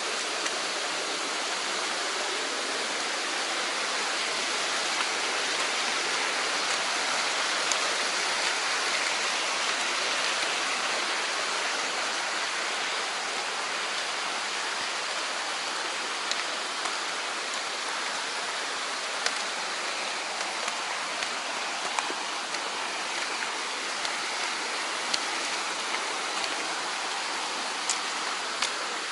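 Mountain stream flowing, a steady rush of water, with a few faint sharp clicks in the second half.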